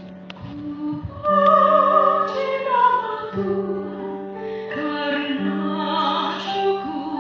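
A young woman singing in a pop-opera style with a wide vibrato over a sustained instrumental backing. Her voice comes in about a second in, after a few bars of accompaniment alone.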